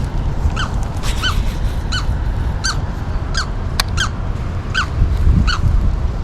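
A bird calling over and over, a short squeaky note repeated about every 0.7 seconds, over a low rumble of wind on the microphone.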